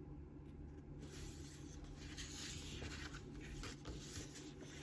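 Faint rustling of paper as a picture book's pages are handled and turned.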